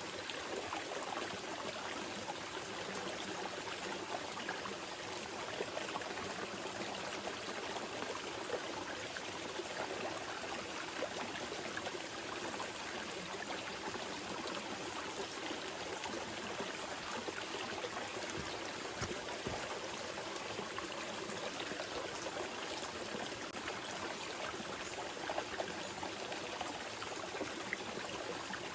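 A small river flowing steadily over stones, an even rushing with fine trickling and splashing.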